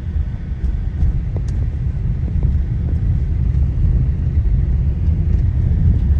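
Steady, loud low rumble with a few faint clicks.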